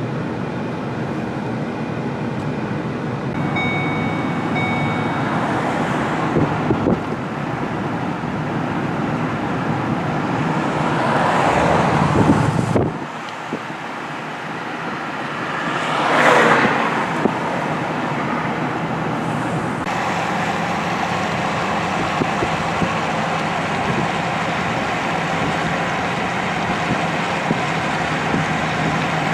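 Road traffic noise, with two vehicles passing close by in the middle, one swelling and cutting off sharply, the other rising and fading.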